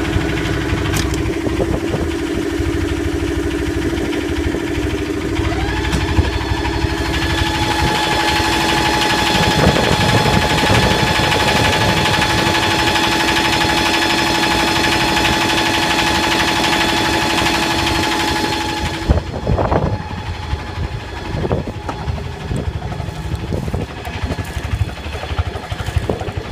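Yanmar SB12 single-cylinder marine diesel running in reverse gear under load, steady and strong after its fuel line has been repaired and bled of air. Its pitch rises and settles about six seconds in, and it drops back sharply near nineteen seconds.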